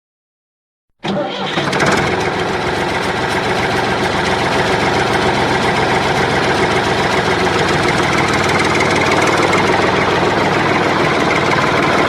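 An engine sound cuts in abruptly about a second in, after silence, and then runs steadily.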